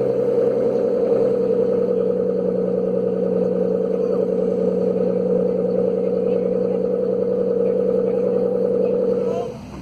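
An engine running steadily at a constant speed, holding one pitch, then cutting off abruptly near the end.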